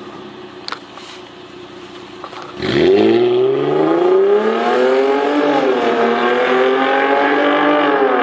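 Mercedes-Benz V6 engine running low and quiet at first, then about two and a half seconds in it revs up loudly and pulls hard, its pitch climbing. The pitch dips briefly in the middle, climbs again, and drops near the end.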